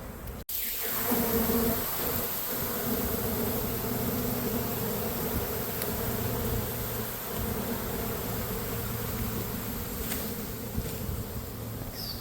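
Honeybee swarm buzzing, a steady dense hum of thousands of bees. It cuts in after a brief break about half a second in.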